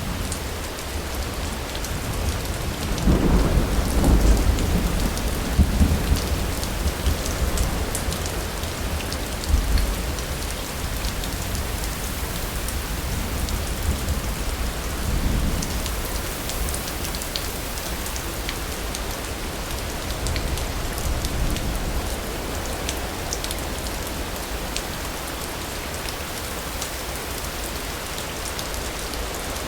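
Steady rain falling, with a long roll of thunder about three seconds in that builds and then fades over the next several seconds, and a smaller rumble near the middle.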